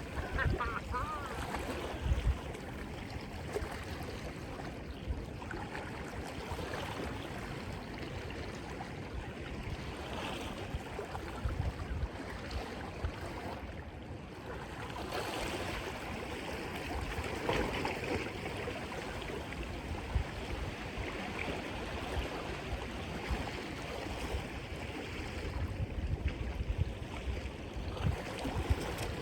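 Sea washing and surging against the rocks, with wind gusting on the microphone now and then.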